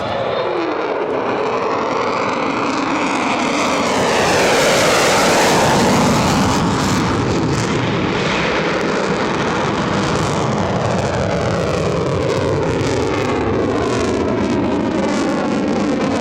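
Fighter jet's engine noise during a pass, rising to its loudest about five seconds in and staying loud after, with a sweeping, phasing swoosh as it goes by.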